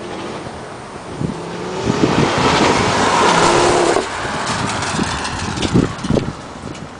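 Ford Focus RS Mk2's turbocharged five-cylinder engine revving up through a Cobra Sport stainless cat-back exhaust, rising in pitch to full throttle. The sound cuts off suddenly about four seconds in as the throttle is lifted, followed by a few sharp pops from the exhaust on the overrun.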